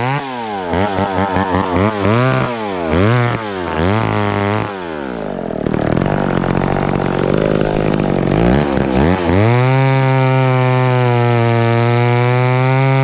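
Two-stroke chainsaw revved up and down several times, then pulled down in pitch under a rough, noisy load for about four seconds, as when the chain is cutting wood. It then holds a steady high rev near the end.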